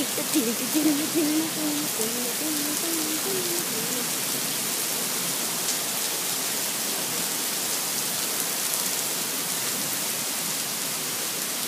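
Heavy rain falling steadily, an even dense hiss without let-up.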